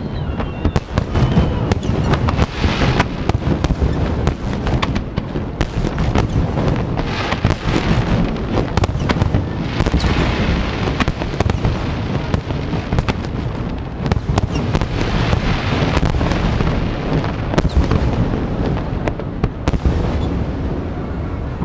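Aerial fireworks shells bursting in a dense, continuous barrage: overlapping booms and sharp cracks over a constant low rumble, with no pause between them.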